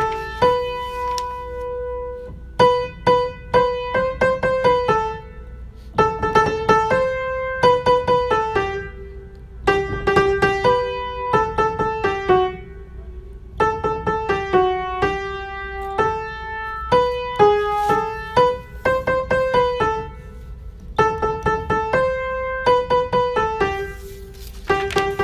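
Solo piano music: a melody of separate struck notes played in short phrases, with brief pauses between phrases.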